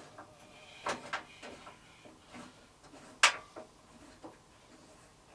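Scattered knocks and clicks of the bandsaw's wheel-cover doors being shut and latched, the sharpest knock about three seconds in.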